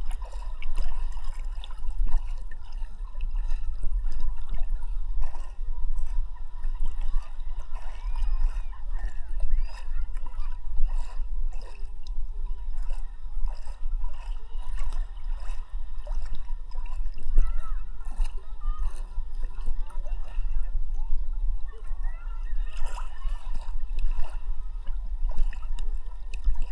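Sea water sloshing and splashing against a camera held at the surface while swimming, with frequent small splashes over a steady deep rumble.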